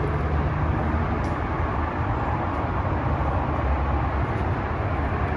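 Steady noise of highway traffic, cars driving by.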